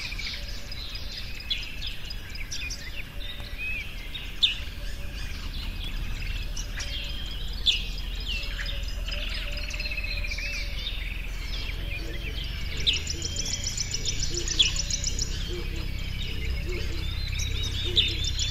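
Several birds singing and chirping together, many short calls overlapping, with a fast high trill partway through and again near the end.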